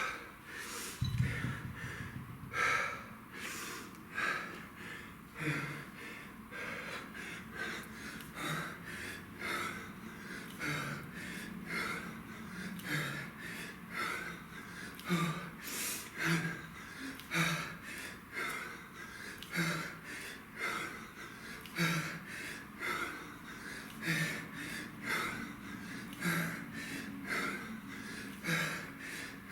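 A man breathing hard through the mouth while exercising with a kettlebell: forceful, gasping breaths about once a second.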